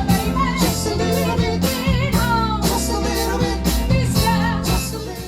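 A live band playing a rock-and-soul number: a steady drum beat and bass under a lead melody that bends in pitch. The music starts to fade near the end.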